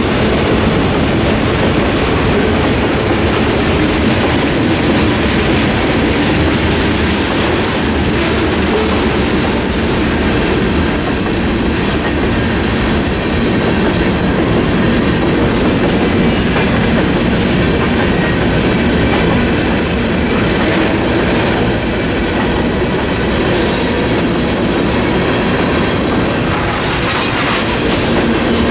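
Freight train cars rolling past at speed: autoracks, a boxcar and then tank cars. The wheels give a steady rumble and clickety-clack over the rail joints.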